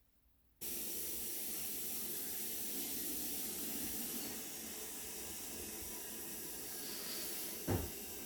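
A steady rushing hiss, like water or steam, that starts abruptly under a second in and cuts off sharply at the end, with a single thump near the end.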